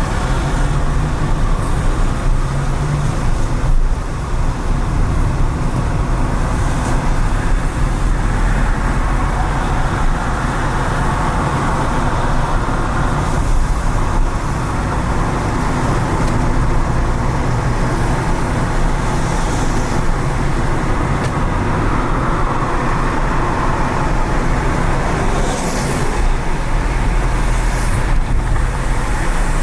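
Car driving on wet city streets: steady low engine and road rumble with tyre hiss from the wet pavement, and several brief high hisses from passing traffic.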